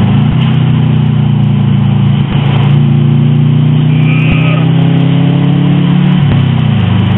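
Subaru WRX's turbocharged flat-four engine heard from inside the cabin, pulling steadily under load with its pitch rising slowly for about six seconds, then falling away near the end.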